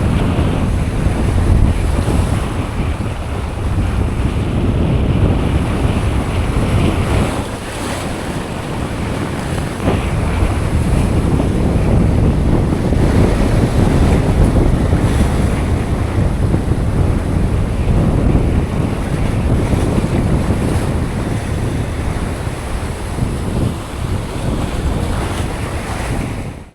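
Wind rumbling across the microphone, with sea surf washing behind it.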